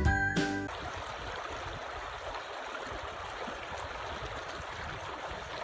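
A music track cuts off under a second in, followed by a steady rushing noise.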